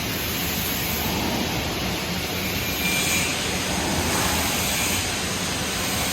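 Steady hissing, crackling noise of an electric arc welding a 1-inch pipe socket joint.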